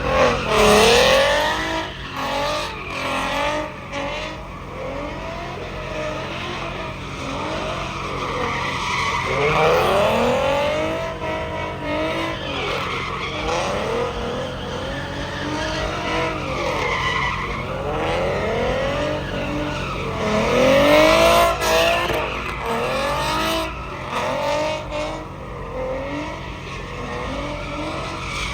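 Tires squealing and engines revving in burnouts, with repeated rising-and-falling squeals that swell and fade over a steady low rumble.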